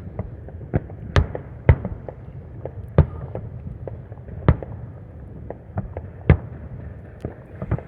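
Fireworks bursting: a dozen or so sharp bangs at irregular intervals, some loud and some fainter, the loudest about a second in, at three seconds and near six seconds.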